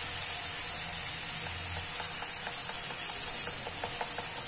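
Spiced tomato-onion masala sizzling in oil in a pan while a spatula stirs and scrapes it, with a steady hiss and short taps and scrapes in the middle. It is frying until the oil separates from the masala.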